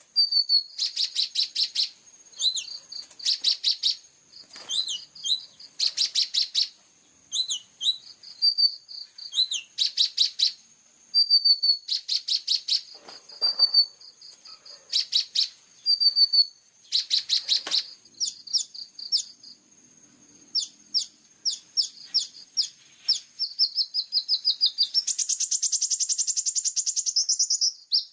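Kolibri ninja sunbird singing vigorously: rapid rattling trills, each about a second long, alternate with short high chirps and glides, and a longer unbroken trill comes near the end.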